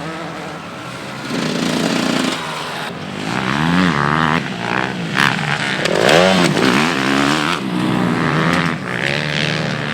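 Motocross motorcycles racing, several engines revving at once, their pitch rising and falling as the riders accelerate and shift; loudest about six seconds in.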